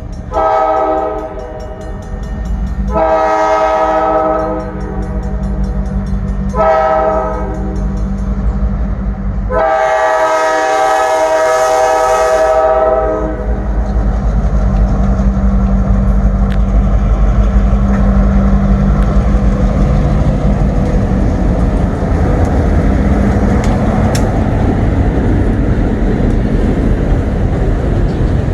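Diesel freight locomotive's horn sounding the grade-crossing signal (two long blasts, a short one, then a final long blast held about four seconds), over the low rumble of the diesel engine. After the horn stops, the locomotive and its cars roll past with a steady rumble and a clatter of wheels on the rails.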